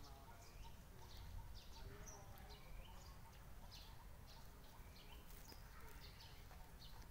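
Faint birdsong: many short, high chirps that fall in pitch, repeating several times a second, over a low rumble of wind.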